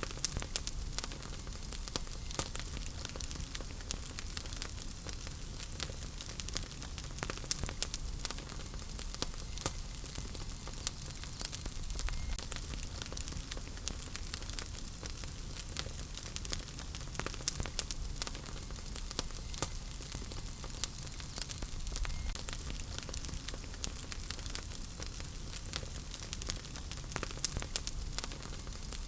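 Wood fire in a fireplace crackling, with many sharp irregular pops and snaps over a steady low hiss and rumble of the flames.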